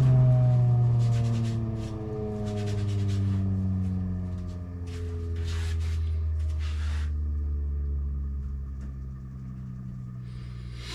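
Belt grinder motor winding down after being switched off: a hum that slowly falls in pitch and fades, with a few short scraping sounds in the first several seconds.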